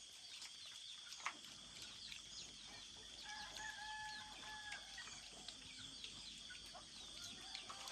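Quiet farmyard sound: chickens clucking, and about three seconds in a faint, drawn-out call that fits a rooster crowing, over a steady high drone and scattered small chirps.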